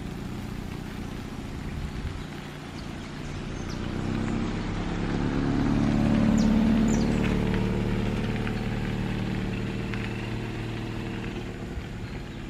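A motor vehicle passing by, its engine sound growing louder to a peak about halfway through and then fading away.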